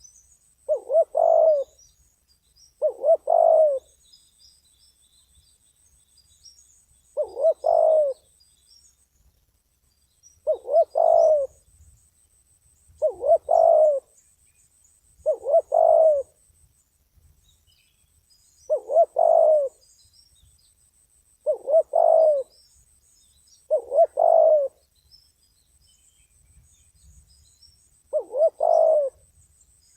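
Spotted dove cooing: about ten repeated multi-note coo phrases, each about a second long, with gaps of two to four seconds between them.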